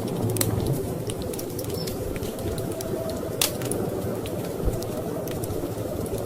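Wood fire crackling in a fireplace: irregular sharp pops, one louder pop about three and a half seconds in, over a steady low rumble of storm wind.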